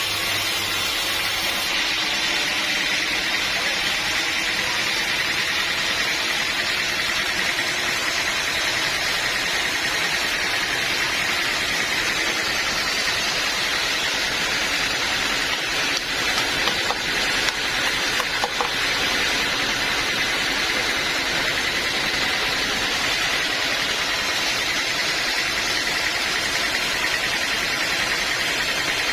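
Band sawmill running steadily, a continuous machine noise with a high whine. A few brief irregular knocks come about halfway through.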